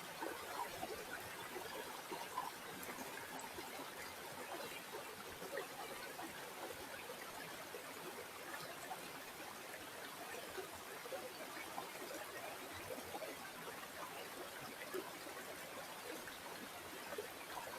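Small river or stream flowing steadily over stones, a continuous rush with fine bubbling and trickling.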